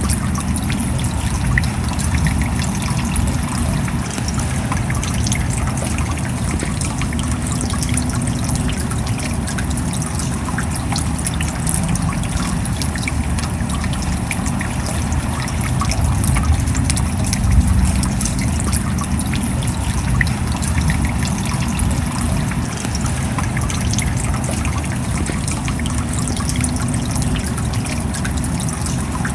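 Steady rain: a continuous hiss dotted with many small drop ticks over a heavy low rumble.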